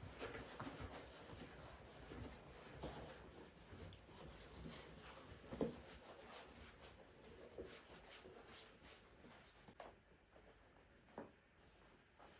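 Faint rustling and scraping with scattered light clicks, as of things being handled, and one sharper knock about five and a half seconds in.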